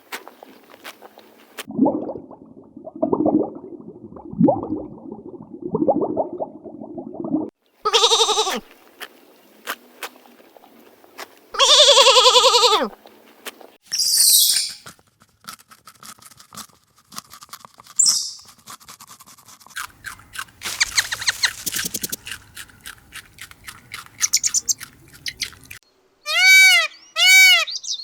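A run of separate animal calls: several low calls, then bleat-like cries that fall in pitch, a few high calls, and near the end two arched calls that rise and fall.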